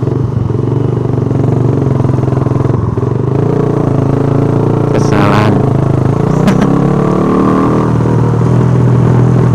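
Motorcycle engine running steadily while riding, its pitch dipping slightly about two-thirds of the way through and then rising again. A brief sharp burst of noise about halfway through.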